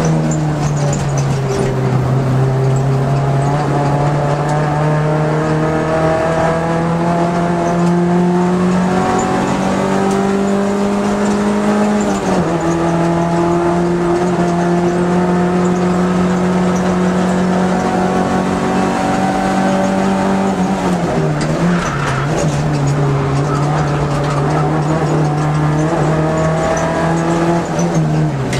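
Vauxhall Nova GTE's four-cylinder engine heard from inside the cabin at track pace, held at high revs. Its pitch climbs slowly and steadily, then drops sharply at a gear change right at the start, about twelve seconds in, around twenty-one seconds in and again near the end.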